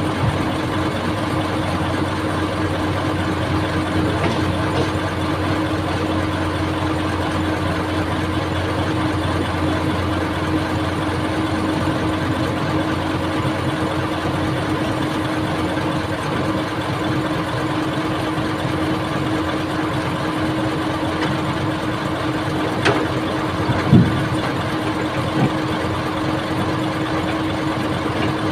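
Old excavator's engine running steadily, with a few short knocks near the end.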